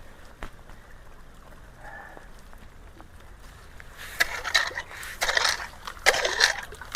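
Faint steady water flow, then from about four seconds in a run of irregular splashing, scraping and rattling as debris and gravel are worked loose from a clogged roadside culvert by hand.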